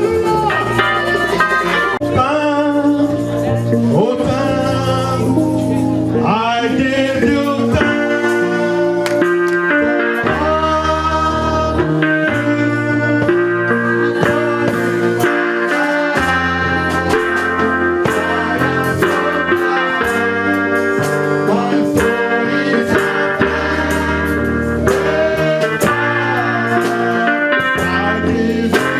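Band music with electric guitar and bass, played continuously at a steady level.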